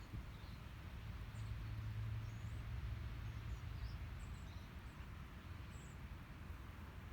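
Small birds giving scattered short, high chirps, over a low steady hum that swells for a few seconds early in the stretch and then eases.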